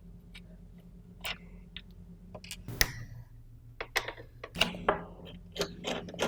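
Screwdriver backing out the two Phillips mounting screws of a humidifier solenoid valve: scattered small clicks and knocks of the tool and screws against metal, the loudest about three seconds in, over a faint steady low hum.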